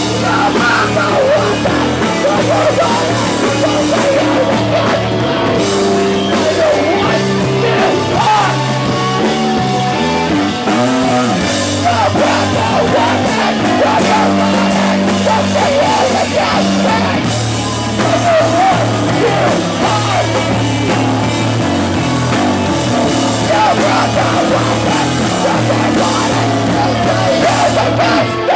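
Live rock band playing a loud song with drums and a singer's vocal line, the music stopping abruptly at the very end.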